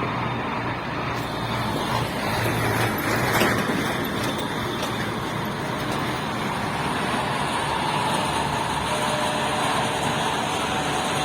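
Kirovets K-700 tractor's turbocharged YaMZ-238 V8 diesel running steadily, with a brief louder surge about three and a half seconds in.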